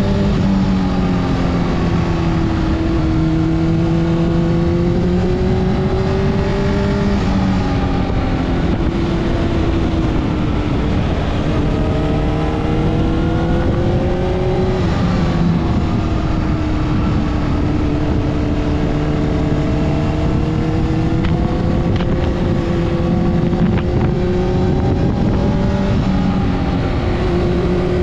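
Honda CBR600RR inline-four engine pulling at moderate revs through a series of bends. Its pitch rises and falls slowly, with a few sudden drops about seven, fifteen and twenty-six seconds in, and wind rush sounds under it on the action camera's built-in microphone.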